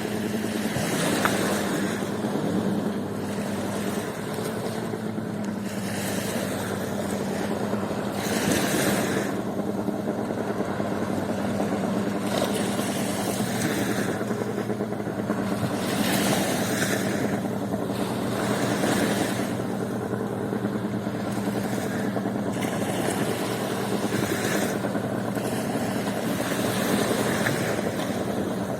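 Waves washing ashore in irregular surges every few seconds, over a steady low motor hum.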